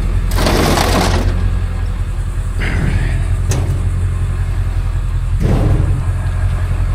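A motor vehicle's engine running steadily with a low hum, with a few short bursts of rushing noise over it.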